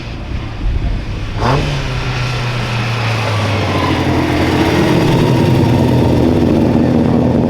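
Hill-climb race car engine running hard at steady high revs, growing louder as the car approaches.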